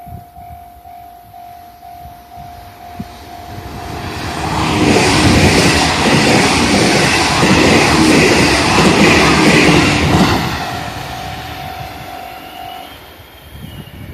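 Level-crossing warning signal sounding as a steady, pulsing tone, then a JR Central 313 series electric multiple unit passes close by for about six seconds, loud, with a rush of noise and the clatter of its wheels. Near the end the crossing signal is heard again for a couple of seconds and stops.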